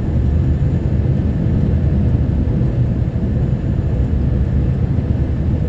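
Snowplow truck running along a snow-covered road: a steady low rumble of engine and road noise.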